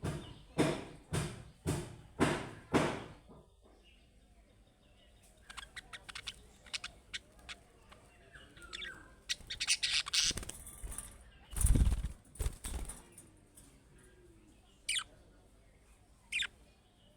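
Budgerigars chirping and chattering. There are about six loud sharp bursts in the first three seconds, softer scattered chirps after that, a heavy low thump about twelve seconds in (the loudest sound), and two sharp single chirps near the end.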